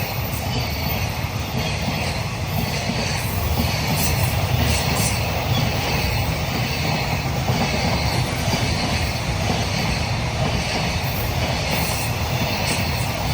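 Freight train hauled by an EF210 electric locomotive running through a station without stopping: a steady rumble of the wagons' wheels on the rails.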